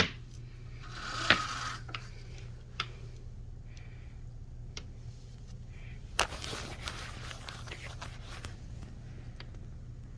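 Scattered sharp clicks and knocks, the strongest about six seconds in, over a steady low hum.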